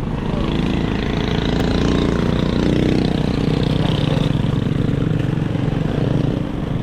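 A motor vehicle's engine running steadily close by.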